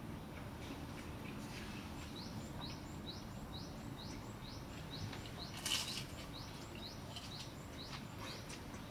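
Steady rain falling on the forest, with scattered drips and taps. From about two seconds in, a bird repeats a short rising note about two to three times a second. A single sharp tap a little past the middle is the loudest sound.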